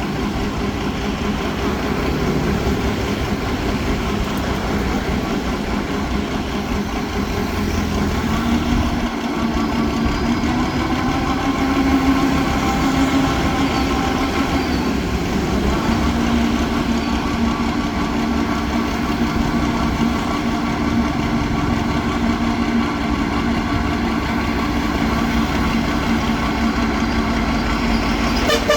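Engine of a homemade mud suction boat running steadily. Its note rises slightly about eight seconds in and settles back at around sixteen seconds.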